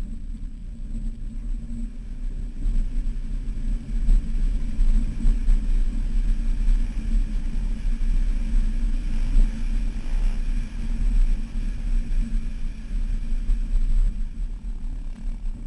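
Jeep engine running as it drives over sand dunes: a steady, loud low rumble that rises and falls a little.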